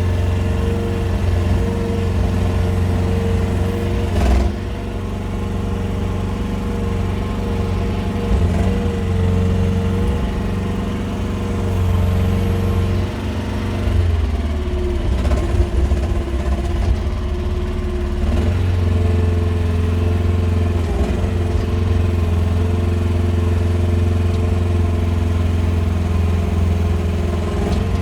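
QH13R mini excavator engine running steadily under the hydraulics, its pitch sagging briefly about halfway through as it takes a load, then recovering. A few short knocks sound over it.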